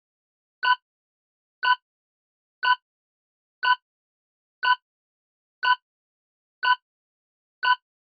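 Quiz countdown-timer sound effect: a short, bright tick once a second, eight in a row, all identical.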